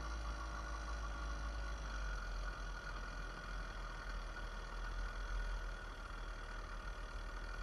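66cc two-stroke motorized bicycle engine running steadily while riding, its pitch drifting slightly early on, with wind rumbling on the microphone.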